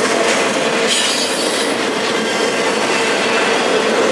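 Double-stack intermodal well cars rolling past on the main line: a steady loud rumble and rattle of steel wheels on rail, with a brief high wheel squeal about a second in.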